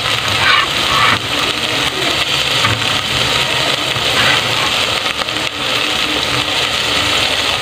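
Sliced onion, garlic, ginger, tomato and green chilies sizzling in hot oil in a stainless steel pot, a steady hiss.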